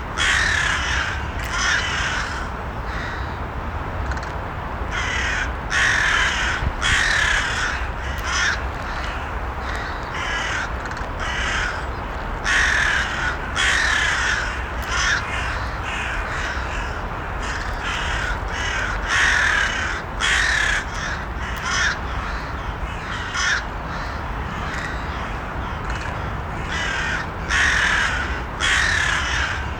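Crows cawing in repeated bouts of short harsh calls with brief pauses between, over a steady low background rumble.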